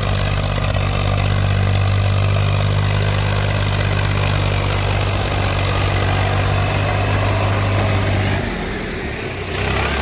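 Heavy diesel engine running steadily with a deep, even hum. It drops away about eight and a half seconds in, and an engine sound picks up again just before the end.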